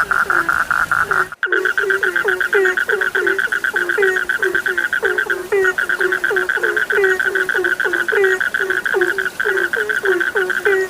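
A chorus of frogs calling: a steady, fast-pulsing trill over a string of short, low croaks, about three a second. Everything cuts out for a moment about a second and a half in, then resumes.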